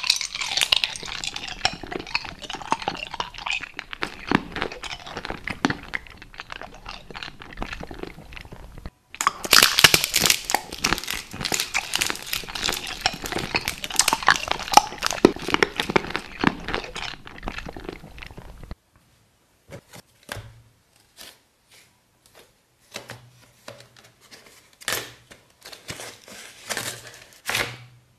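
Close-up crunching and chewing of a hard, brittle food for about the first two-thirds, with a brief break partway. After that come scattered clicks and taps of a plastic make-up palette being handled.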